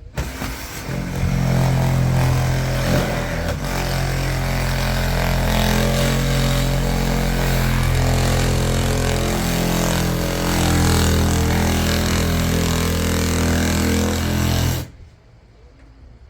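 A motor running steadily and loudly close by, with a strong low hum; it starts abruptly and cuts off suddenly near the end.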